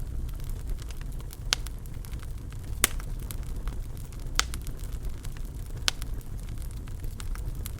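Wood fire burning in a fireplace, with a steady low rumble and sharp pops and crackles, several louder pops spread through it.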